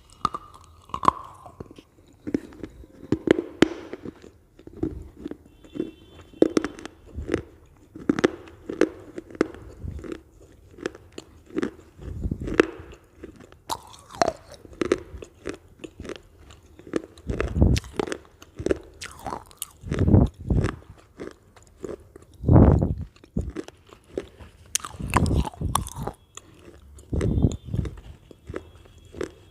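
Close-miked crunching and chewing of Lay's potato chips: a steady run of sharp, brittle crunches as the chips are bitten and chewed, with a few heavier, louder bites.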